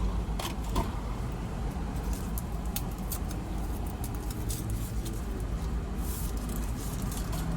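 Car engine idling, a steady low rumble heard from inside the cabin, with scattered light clicks and rustles of things being handled.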